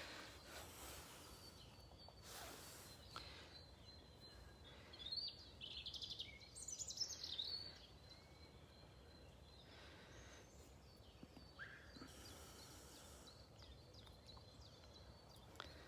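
Faint outdoor background hiss, with birds singing in a short burst of high, quick chirps about five to eight seconds in.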